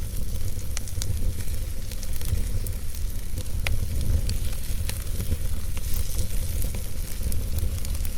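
Wood logs burning in a fireplace: a steady low rumble and hiss of the flames with irregular crackles and sharp pops from the wood, a few pops standing out louder.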